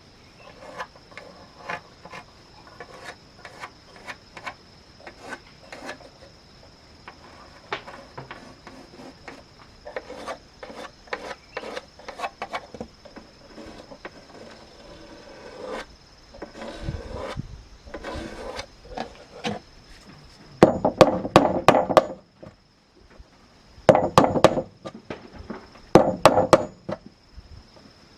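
Pieces of timber being handled and knocked together, with scattered single wooden knocks. Later come four short bursts of rapid, sharp hammer blows on wood, the loudest sounds here.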